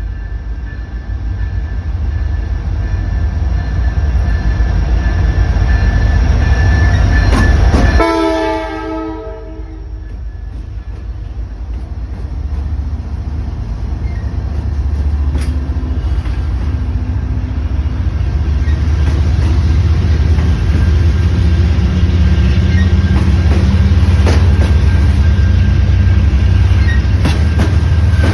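CN freight train passing close by: the diesel locomotives' heavy rumble builds, the horn sounds and drops in pitch as the lead unit goes by about eight seconds in, then the box cars and tank cars roll past with a steady rumble and wheel clicks over the rail joints.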